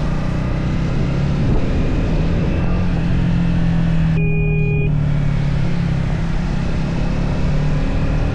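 Triumph Speed 400's single-cylinder engine running steadily while riding, under wind and road noise. A brief half-second tone sounds about four seconds in.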